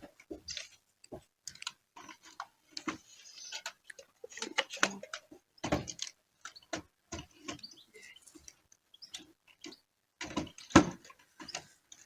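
Scattered knocks and clicks from handling the chimney pipe and working on the roof, irregularly spaced, with one louder thump about eleven seconds in.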